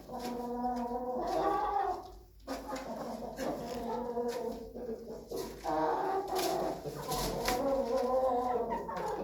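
Dark Brahma chickens calling: two long, wavering calls, the first in the opening two seconds and the second from about halfway through to near the end.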